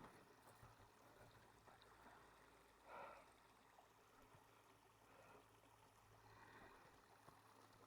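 Near silence: faint outdoor hiss, with one soft brief rustle about three seconds in.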